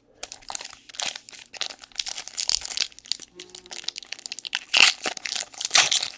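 Trading card pack wrapper being torn open and crinkled by hand, in two stretches of dense crackling with a short lull in between.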